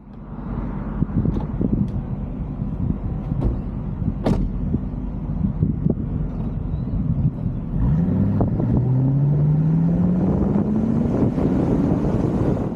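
A V8 muscle car engine rumbling. About eight seconds in it gets louder and its note rises steadily as the engine revs up under acceleration.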